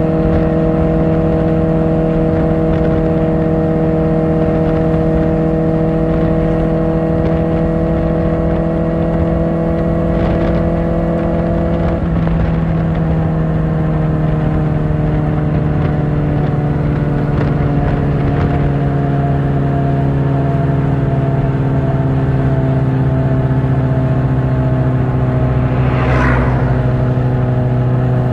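Kawasaki Ninja ZX-4R inline-four with an Akrapovič exhaust, running at steady cruising revs. About twelve seconds in the revs drop slightly, then sink slowly. Near the end a brief whoosh passes.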